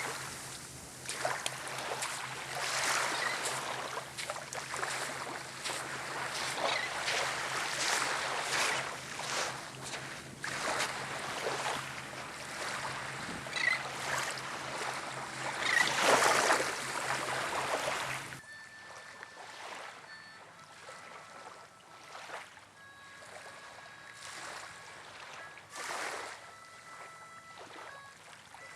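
Gusty wind rushing over the microphone, with water noise underneath and a low steady hum. About two-thirds of the way through, the sound cuts suddenly to a quieter, softer wash with a few faint thin tones.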